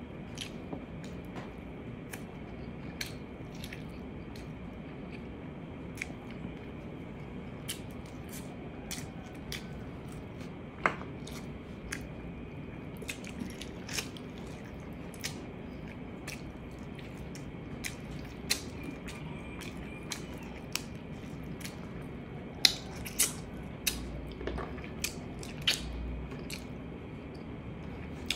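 Close-miked eating of braised pork ribs and rice by hand: chewing and lip smacking, with many short wet clicks scattered throughout and a few louder ones near the end.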